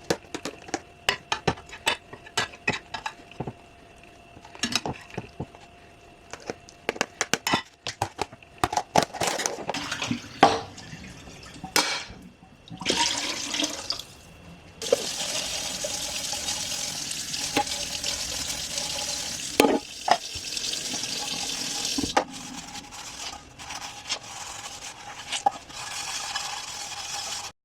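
Dishes being washed by hand at a kitchen sink: plates and utensils clink and knock against each other, and the faucet runs for several seconds in the middle before the clinking goes on more quietly.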